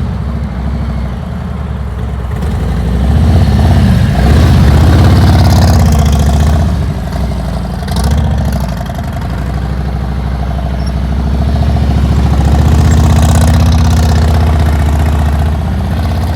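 Motorcycle engine running at low speed through slow tight turns, swelling louder twice as it comes close.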